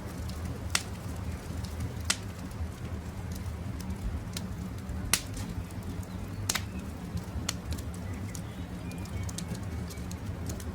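Wood campfire crackling over a low, steady rush of flame, with a few sharp pops standing out among the lighter crackles. Faint birdsong in the background.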